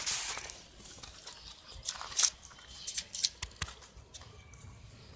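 Paper kite and thread being handled: a scattered series of short rustles and clicks, the sharpest about two seconds in and a few more a second or so later.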